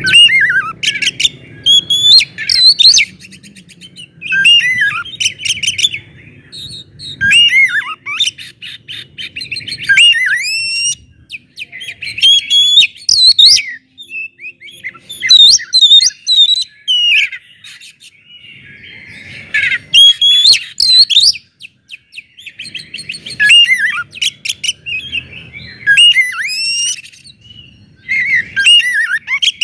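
Oriental magpie-robin (kacer) singing a loud, varied song of gliding whistles and fast chattering trills, delivered in phrases of a second or two separated by short pauses.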